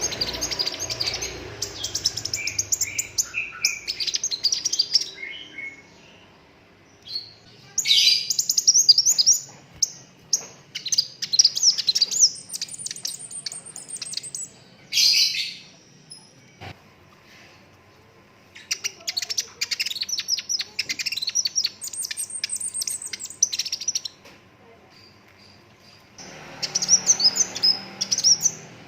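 Sunbird (kolibri raja) singing in energetic bursts of rapid, high twittering trills a few seconds long, separated by short pauses.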